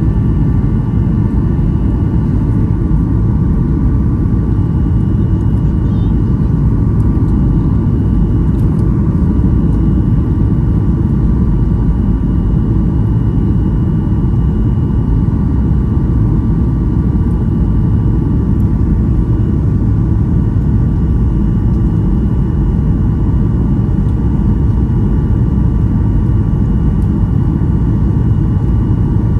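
Cabin noise of a Boeing 737-800's CFM56 turbofan engines running steadily: a loud, even rumble with faint steady whine tones above it.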